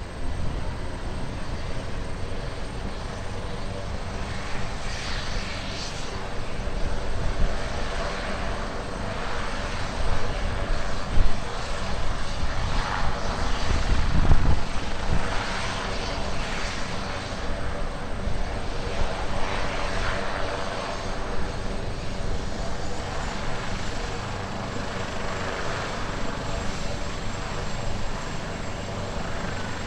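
Aircraft engine running steadily, swelling louder through the middle and easing off again, with low wind rumble on the microphone.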